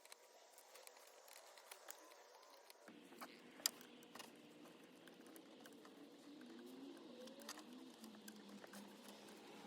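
Near silence with faint scattered clicks and taps, one sharper click about three and a half seconds in.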